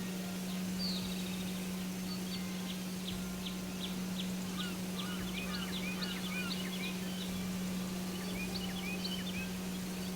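Birds chirping over a steady low hum: a quick, even run of short high chirps, then a denser flurry of twittering in the middle.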